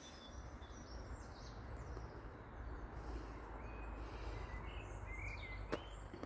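Faint birds chirping over a low outdoor rumble, with a sharp click near the end.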